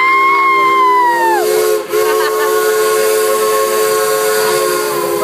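Steam locomotive whistle blowing a long, loud chord over a steam hiss. A higher note slides in at the start and slides away about a second and a half in, the sound dips briefly near two seconds, and the lower notes hold on.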